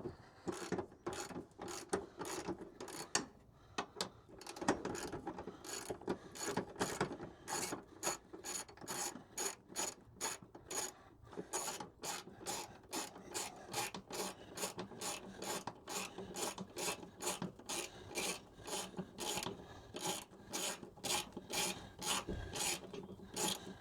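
Socket ratchet on an extension bar undoing the fuel tank's mounting bolts: a steady run of ratchet clicks, about two a second, as the bolt is wound out.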